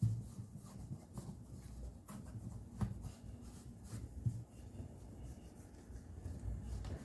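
Light knocks and rubbing from handling work, over a steady low hum.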